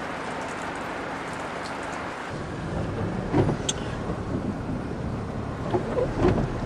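Storm wind: a steady hiss, then from about two seconds in a loud low rumble of gusts buffeting the microphone, with a few heavier thumps.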